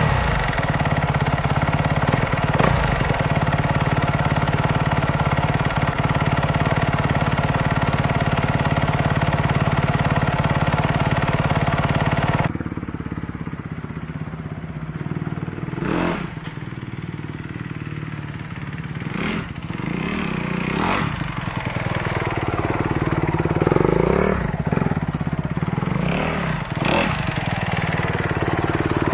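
2012 Kawasaki KX250F single-cylinder four-stroke motocross engine running steadily. About twelve seconds in the sound turns abruptly quieter and duller, with a few short sharp bursts and a brief rise in pitch.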